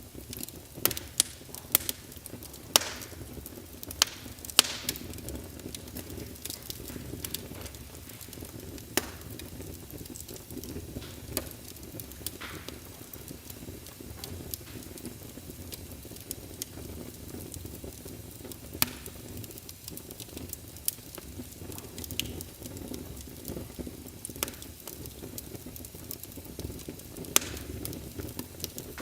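Wood logs burning in a fireplace: a steady low rumble of flame under frequent sharp crackles and pops. The pops are loudest and most frequent in the first few seconds, with another loud pop near the end.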